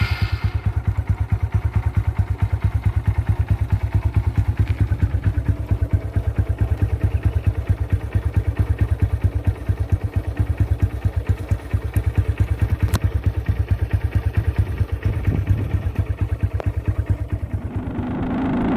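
Honda CB110's small single-cylinder four-stroke engine idling steadily just after starting, with an even pulsing exhaust beat. Near the end the engine picks up revs and gets louder.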